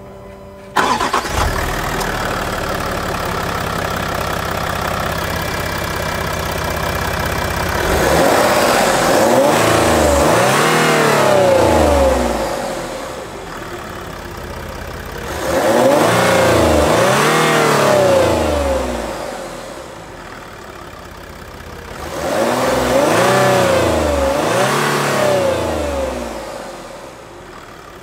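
Range Rover Sport's V6 engine starting about a second in and idling, then revved in three bouts of quick throttle blips. Each bout rises and falls in pitch before the engine drops back to idle.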